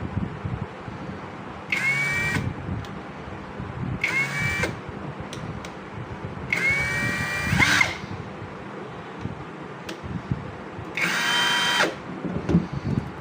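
A 20V brushless cordless drill triggered in four short bursts. Each burst starts with a motor whine climbing as the chuck spins up, then runs briefly before stopping, and the third and fourth bursts are the longest. Low handling knocks come between the bursts.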